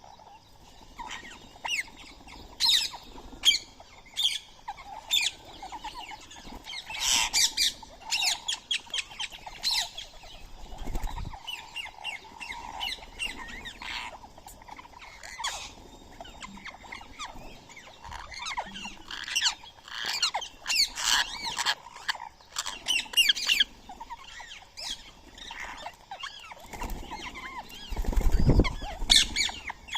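Indian ringneck parakeets calling: many short, sharp squawks in irregular flurries. A brief low rumble comes near the end.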